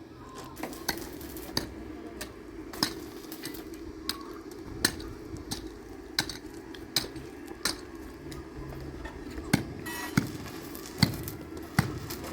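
Hammer striking, over a dozen sharp knocks at uneven intervals, over a steady low hum.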